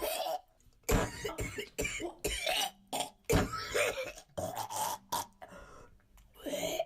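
A man's hacking cough: a long fit of rapid coughs lasting about five seconds, then one more cough near the end. The coughs are the sign of an illness that he shrugs off as 'bird Zika'.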